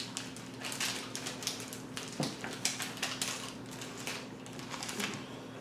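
Crunchy chewing of a piece of chocolate bark studded with candy corn, candy gems and cookie pieces: a run of small, crisp crackles.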